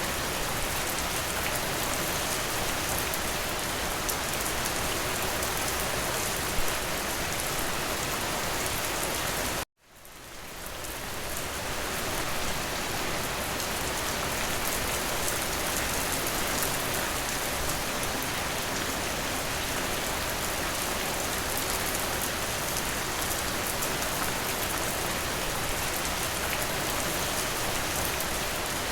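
Steady rain falling, an even hiss of drops. About ten seconds in, the sound cuts out abruptly to silence and then fades back in over a couple of seconds.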